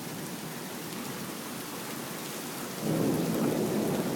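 Steady rain falling during a thunderstorm. About three seconds in, a low rumble of thunder comes in and grows louder, following a bright lightning flash.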